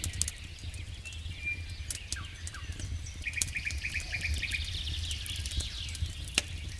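Campfire crackling with scattered sharp pops over a steady low rumble, while birds sing, one giving a rapid trill in the middle.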